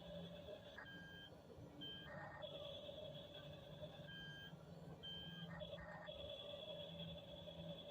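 Remote-control toy track-type tractor running with a faint steady electric whine and hum. Four short electronic beeps, like a reversing alarm, sound during the first five seconds.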